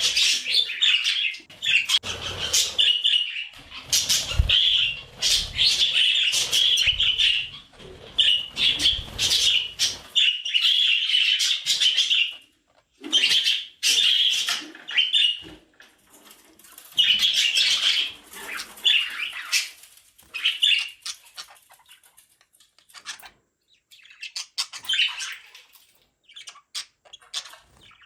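Budgerigar chirping and warbling in quick, dense bursts of high chirps, with some low rustling in the first ten seconds; the chatter thins to scattered chirps in the second half.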